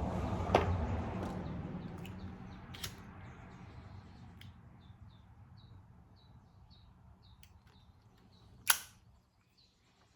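A small bird chirping over and over, short high notes about two or three a second, over a low rumble that fades away over the first few seconds. A single sharp click sounds near the end.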